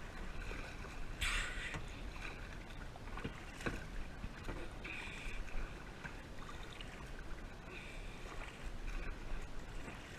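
Kayak paddle strokes: the blades dipping into and splashing through the water every second or two, the loudest splash about a second in.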